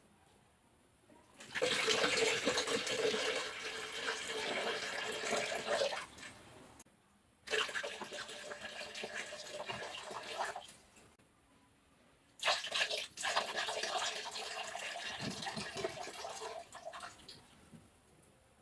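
Fresh coconut water pouring out of an opened coconut into a container, in three separate pours a few seconds each, every one starting suddenly.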